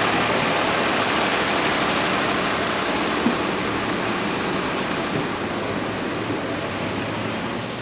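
Steady rushing rumble of vehicles in motion, easing slightly near the end.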